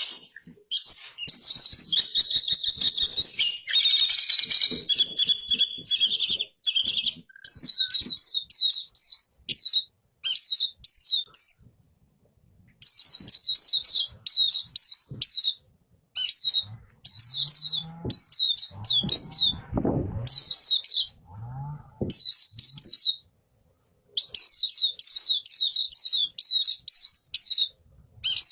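White-eye (pleci) singing: rapid, high, twittering song phrases about a second or two long, repeated with short pauses. A low rumble sounds briefly in the middle.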